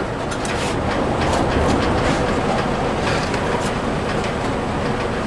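Irregular clicking and rustling of hands working vacuum hoses and wiring behind a truck's dashboard, over a steady background rumble.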